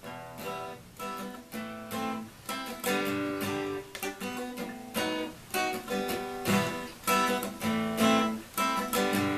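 Acoustic guitar strummed in a steady rhythm of chords, with no voice: an instrumental passage.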